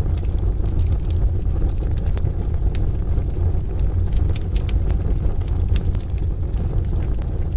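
Wood fire crackling with frequent irregular sharp pops, over a steady low rumble.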